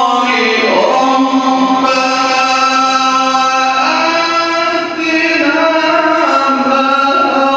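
A man's voice chanting religiously in long, held notes with ornamented slides between pitches.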